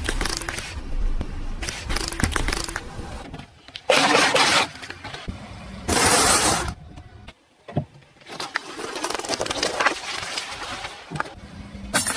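A car driving over and crushing objects, heard in several short cut-together clips: engine and tyre noise, with a couple of loud bursts and a long stretch of crackling and crunching.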